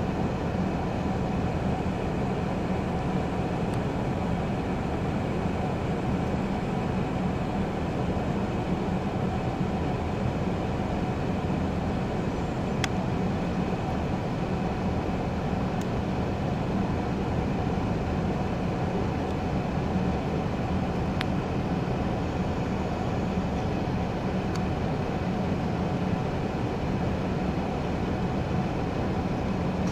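Steady, even drone of a parked vehicle's engine idling, heard from inside the cab.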